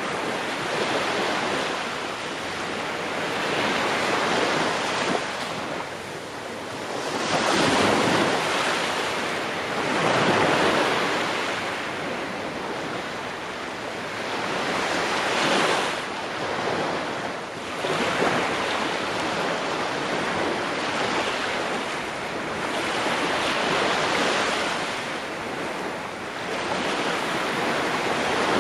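Ocean waves breaking and washing on a shore, each surge swelling and easing every few seconds without a break.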